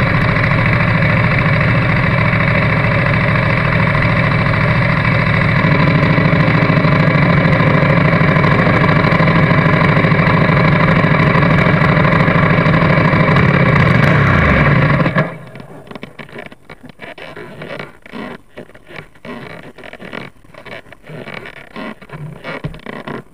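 Motorcycle engine running steadily at low revs, then switched off about fifteen seconds in, its pitch falling as it dies. Faint scrapes and knocks follow.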